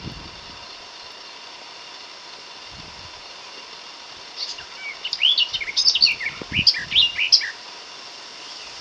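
A small bird sings a short, quick run of varied high chirping notes for about three seconds, starting near the middle, over a faint steady background hiss.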